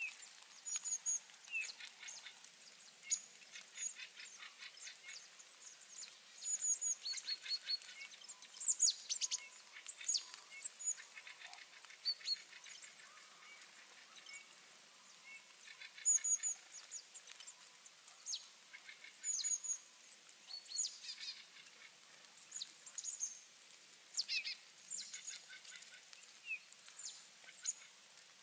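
A flock of small birds chirping and calling, with many short, high, overlapping calls and quick trills coming every second or two.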